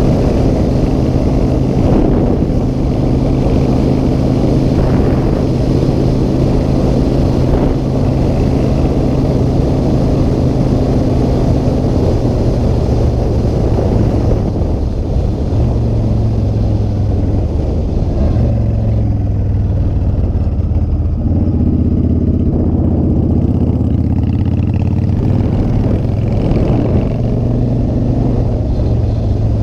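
Motorcycle engine running while riding, with a steady engine note under heavy low rumble. In the second half the pitch steps down and up several times as the revs change.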